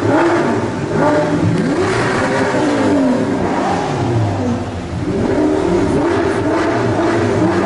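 Loud car engine revving and accelerating, its pitch climbing and dropping several times, with a long fall in pitch around the middle before it climbs again.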